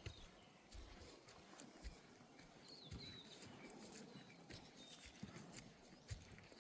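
Near silence: faint soft footfalls and scuffs on a dirt track, with a short high warbling chirp about three seconds in.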